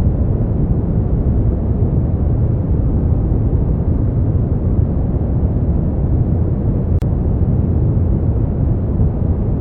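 Synthetic brown noise: a steady, deep rumbling hiss, heaviest in the bass and dull at the top. It has one momentary dropout with a faint click about seven seconds in.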